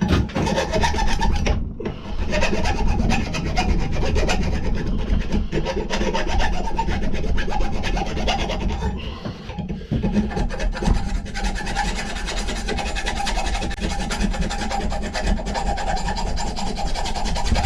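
Hand file rasping back and forth on the steel of an old axe head, steady strokes with short breaks about two seconds and ten seconds in.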